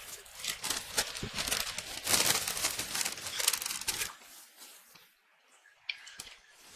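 Paper pastry bag crinkling and rustling, which stops abruptly about four seconds in, followed by a few faint clicks.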